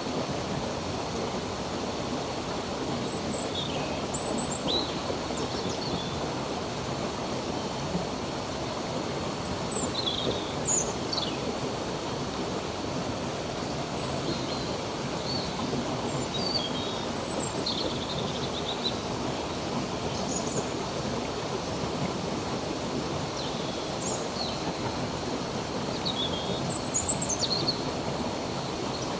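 Steady rush of a flowing stream, with short bird chirps and whistles scattered throughout.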